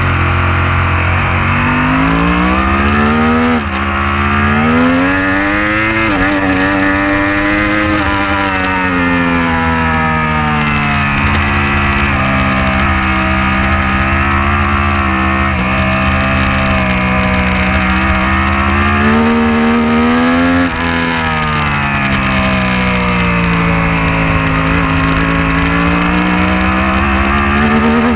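Superbike engine at racing speed, its pitch climbing with quick breaks at each upshift a few seconds in and again about twenty seconds in, and falling away in long slow sweeps between, over a steady rush of wind.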